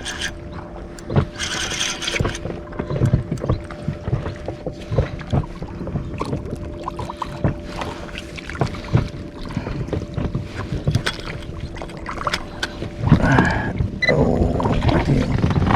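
Sounds aboard a small inflatable fishing boat: irregular knocks and clicks of handling and water against the hull, over a faint steady hum.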